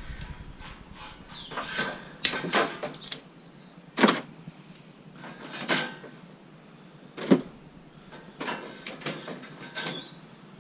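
Scrap electrical cable being cut into shorter lengths and handled: several sharp clicks and knocks, with scraping and rustling between them.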